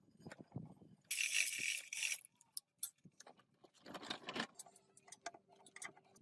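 Workshop handling noises: metal parts clinking and rattling, with a loud hiss lasting about a second near the start and a shorter burst of noise a little past the middle.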